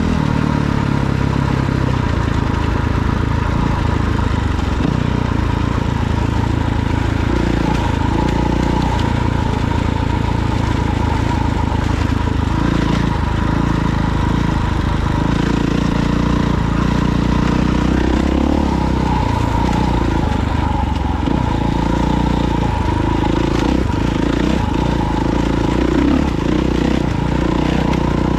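Dirt bike engine running at a fairly steady pace while riding, its pitch shifting a little now and then.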